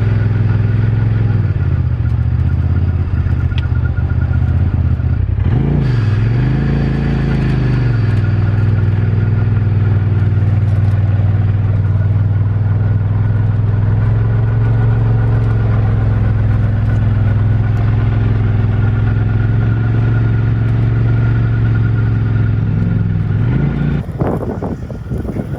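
Turbocharged side-by-side's engine running steadily under load, with a thin steady whine above it. The engine note dips and picks back up about six seconds in, and again near the end.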